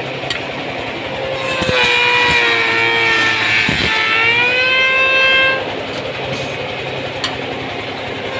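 Motor of an automatic woodworking machine making trowel handles, running with a loud steady whine. The whine swells about a second in, sags in pitch around the middle and comes back up, then drops back near the end, with a few short knocks.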